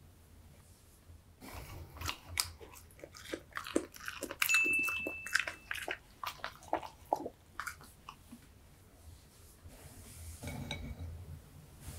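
Spaniel-mix dog chewing cooked broccoli, with irregular wet smacks and crunches for several seconds. A brief high steady tone comes about four and a half seconds in, and the chewing dies away near the end.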